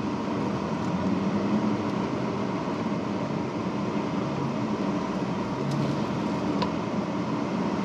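Supercharged 3.2-litre V6 of a 2005 Chrysler Crossfire SRT-6 running as the car is driven, with engine and road noise heard from inside the cabin. The engine note rises and falls a little.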